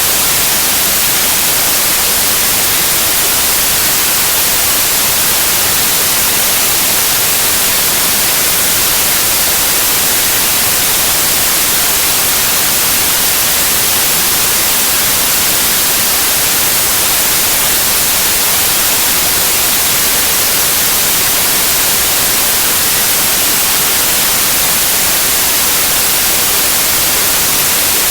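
Steady white noise: an even, unchanging hiss, brightest in the treble, with no breaks or variation.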